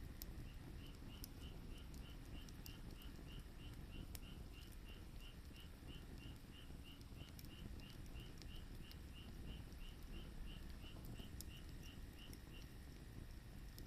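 Firewood burning, giving sparse faint crackles and pops over a low rumble. Over it, a high chirp repeats about two and a half times a second and stops near the end.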